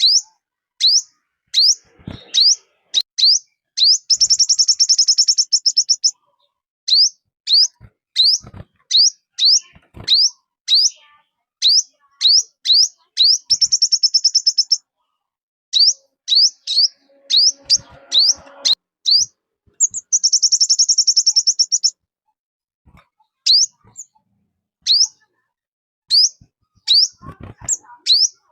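Calls of the bird known in Vietnam as 'chim 5 màu' (five-colour bird), used as a lure call for trapping forest birds: a steady run of short, sharp, high chirps, two or three a second, broken three times by a fast trill about two seconds long. A few faint low knocks sound under the calls.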